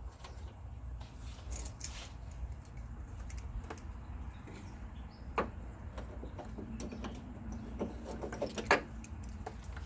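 Scattered small metal clicks and taps as screws are hand-threaded into a car door's window regulator mounting, with a sharper click near the end.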